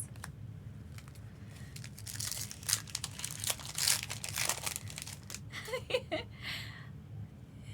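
Foil Pokémon card booster pack wrapper crinkling and tearing as it is opened, a dense run of crackles mostly between about two and five seconds in.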